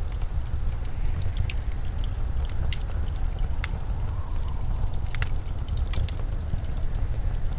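Steady low winter wind rumble with a faint whistle rising about halfway through, overlaid by scattered sharp crackles and ticks.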